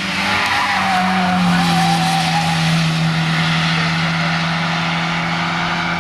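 Race car engine held at steady high revs, with its tyres squealing for about two seconds starting a second in as the car slides. The sound swells and then eases slightly toward the end.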